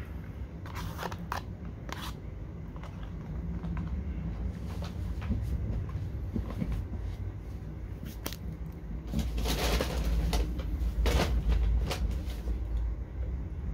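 Close-miked eating: chewing French fries, with scattered wet clicks and rustles of handling food over a steady low rumble. Louder crunchy, rustling bursts come about ten and eleven seconds in.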